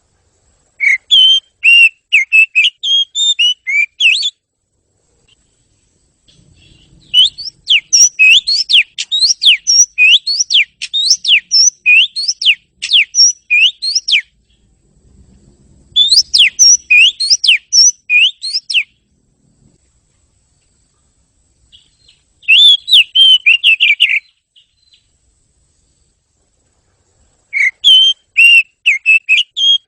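Oriental magpie-robin (kacer) singing loud phrases of rapid, clear whistled notes, five bursts with pauses of a few seconds between them.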